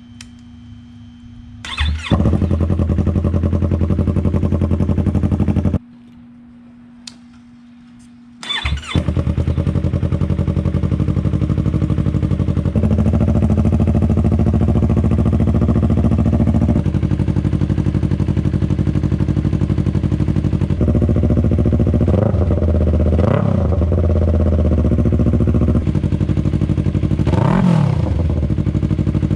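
2019 Yamaha R3's parallel-twin engine, fitted with a Toce full exhaust and its Decibel Killer baffle, being started about two seconds in. The sound cuts off after about four seconds, and the engine is started again. It runs loud and steady at idle, then in the second half it is revved several times, each rev rising and falling.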